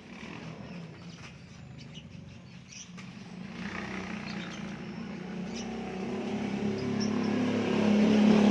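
An engine running and growing steadily louder, as of a vehicle drawing near, with a few faint bird chirps.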